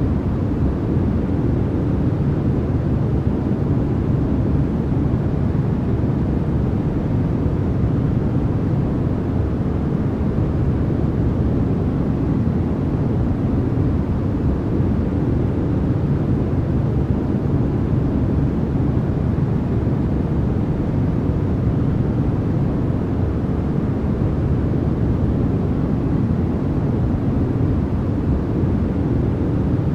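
Steady, unbroken white noise, weighted toward the low end so it sounds deep and rumbling rather than hissy.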